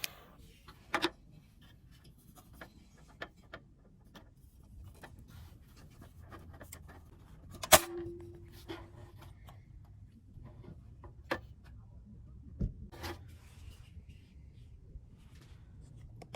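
Scattered small clicks, knocks and rubbing of objects being handled, with one sharp clack a little before eight seconds in, followed by a brief ring.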